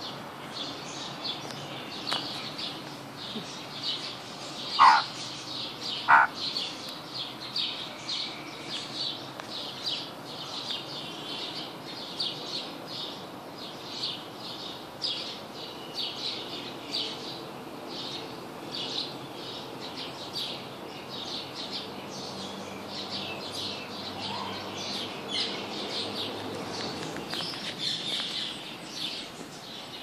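Birds chirping: a dense run of short, high chirps throughout, with two loud, short, sharp calls about five and six seconds in.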